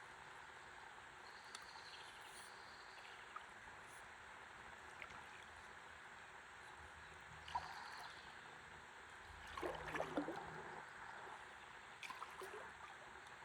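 Faint, steady sound of gently moving river water, with a short splash about seven and a half seconds in and a brief burst of water gurgling and splashing around ten seconds in.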